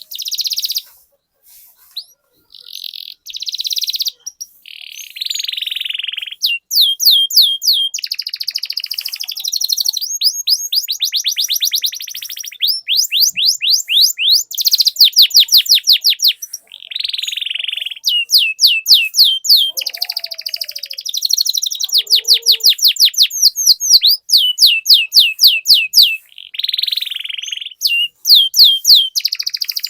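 Domestic canary singing a long rolling song. Fast runs of repeated notes, many falling in pitch, alternate with buzzy rolls, with only brief pauses between phrases.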